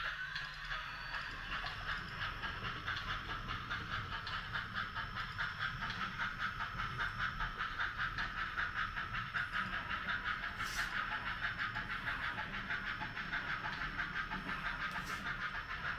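HOn3 model steam locomotive's sound decoder chuffing at a steady, fast beat through its small speaker as the model train runs.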